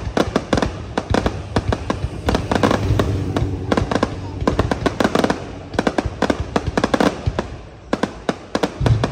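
Aerial fireworks display: a dense run of sharp bangs and crackles, many bursts close together with brief lulls between volleys.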